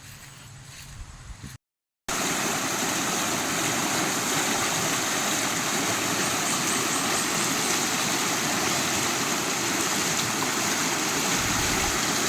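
Heavy rain pouring steadily, a dense, even hiss that starts abruptly about two seconds in.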